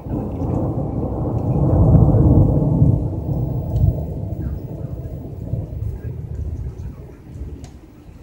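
Thunder: a loud peal that starts suddenly and rolls low, loudest about two to three seconds in, then slowly fades away over the next several seconds.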